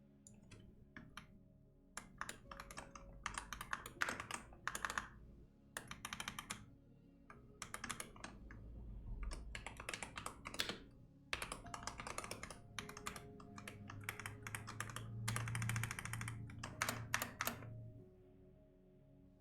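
Computer keyboard typing in bursts of rapid keystrokes separated by short pauses, starting about two seconds in and stopping shortly before the end. Soft background music with held notes runs underneath.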